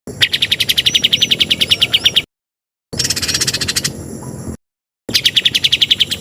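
Songbird song from a masteran training recording: fast trills of rapidly repeated chirping notes with a few upslurred-then-falling whistles over them, in three short clips that start and stop abruptly with dead silence between.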